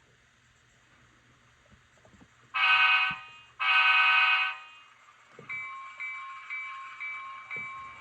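HO scale diesel locomotive's Econami sound decoder, through its small onboard speaker: two loud blasts of a diesel air horn, then a locomotive bell ringing about twice a second from about five and a half seconds in.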